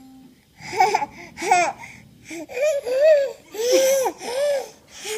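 A baby laughing in a string of high-pitched, bouncing bursts, starting about half a second in.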